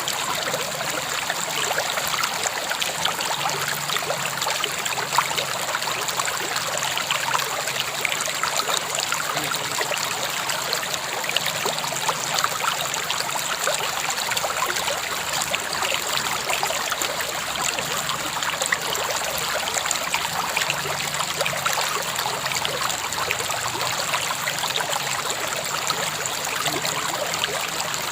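A river flowing in a steady rush of water, with small splashes and trickles over the top.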